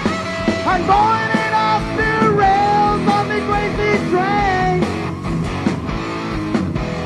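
Live rock band playing with electric guitar and drums, a voice singing in wavering, held notes through the middle.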